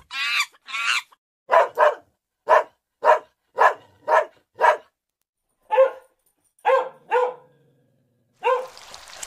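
A dog barking: about eleven short, single barks, coming about two a second at first, then more spaced out. Three higher, drawn-out calls come before them in the first second.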